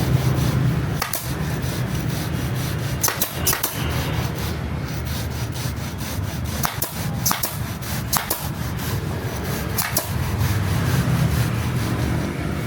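Rubbing and scraping handwork on a motorcycle seat, with scattered sharp clicks, over a steady low hum.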